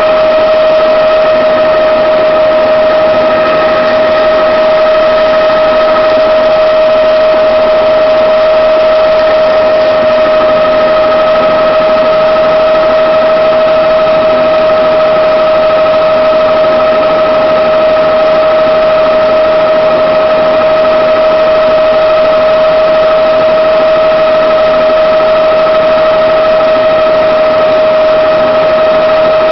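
Helicopter in flight, heard from on board: loud, steady engine and rotor noise with a high whine that holds one pitch throughout.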